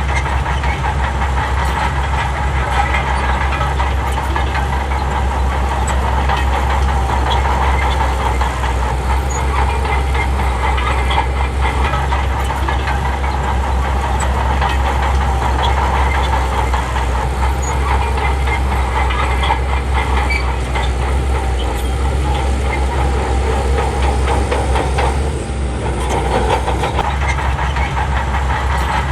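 Bulldozer's heavy diesel engine running steadily under load, with a constant metallic clatter, briefly dipping about 25 seconds in.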